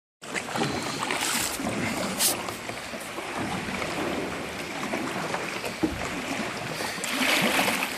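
Kayak paddle strokes and sea water splashing and sloshing around the boat, with wind on the microphone. A louder rush of water or wind comes near the end.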